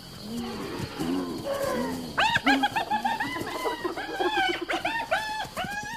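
Several predators calling over a kill: many short cries that rise and fall in pitch, a few low ones at first, then a dense chorus of overlapping cries from about two seconds in.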